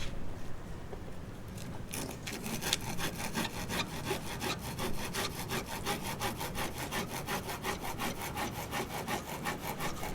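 A hand tool worked back and forth in quick, even strokes, about five a second, starting about two seconds in.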